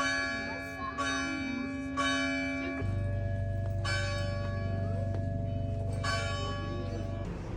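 Church bell ringing, struck five times in the span of about six seconds, each stroke ringing on into the next.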